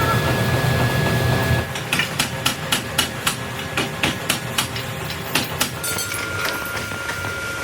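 A run of about a dozen sharp hammer taps, a few a second, starting about two seconds in and stopping before the end. A steady machine hum with a thin whistling tone runs under them.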